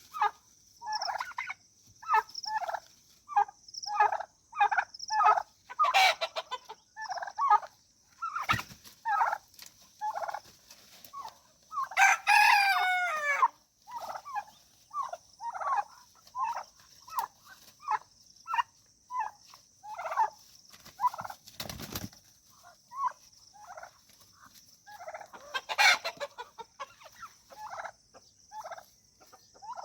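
Poultry calling: a turkey and chickens give short, repeated calls, and a rooster crows once about twelve seconds in. A steady high hiss lies under them, with two dull thumps, near nine and twenty-two seconds.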